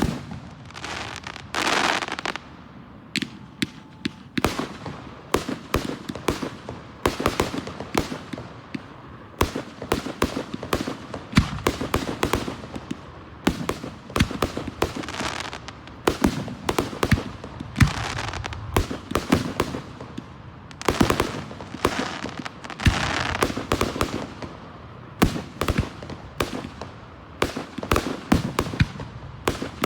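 Fireworks display: a dense, rapid succession of sharp bangs and crackles, with a few longer hissing stretches.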